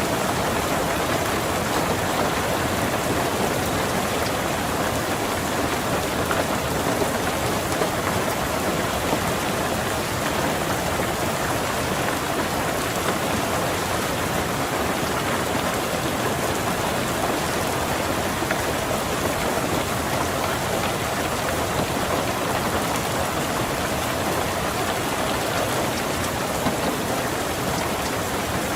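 Steady rain falling on a car, an even, unbroken hiss of drops with no thunder.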